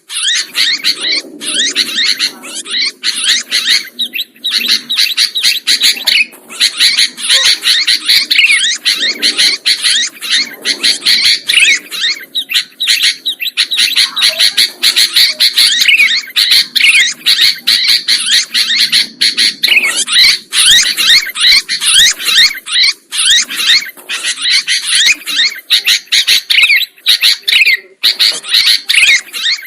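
Sooty-headed bulbuls (kutilang) chirping loudly and without pause, many quick rising and falling notes overlapping in a busy chorus.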